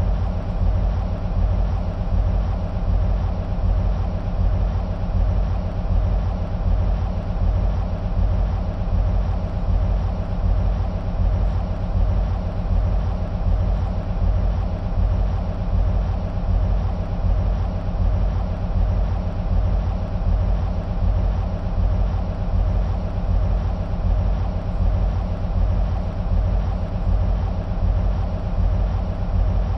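EMD SW1500 switcher locomotives' 12-cylinder two-stroke 645 diesel engines idling: a steady deep rumble with an even, repeating throb.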